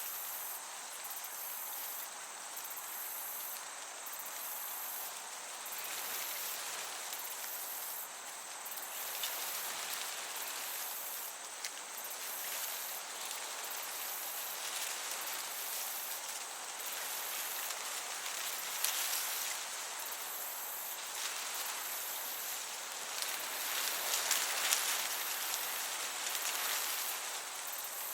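Meadow crickets chirping in a continuous high pulsing chorus over a soft breeze that swells and eases.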